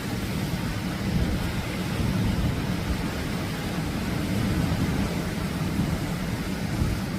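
Atlantic surf washing onto the beach: a steady rushing noise with a heavy low rumble.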